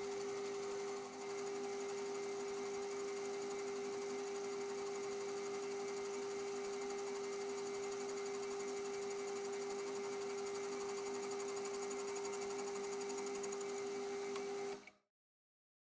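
Metal lathe running steadily with a constant whine while a boring pass is taken through an exhaust casting. The sound cuts off abruptly near the end.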